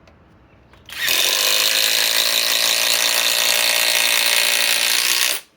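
Flex compact impact driver hammering a 4-inch TimberLOK screw into timber. It starts about a second in, runs steadily for about four seconds and cuts off abruptly.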